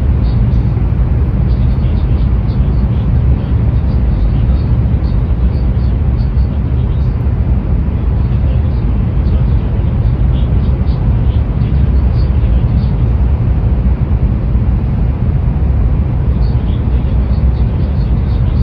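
Running noise heard inside the passenger car of an N700-series Shinkansen train at speed: a steady low rumble with a faint, scattered light ticking on top.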